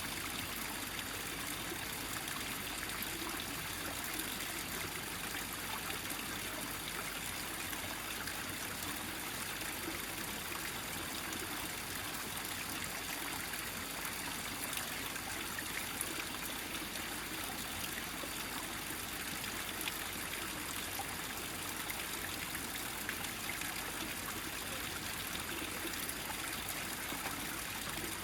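Small mountain stream trickling steadily, its water gathered into one flow over the rocks, with small irregular drips and splashes through it.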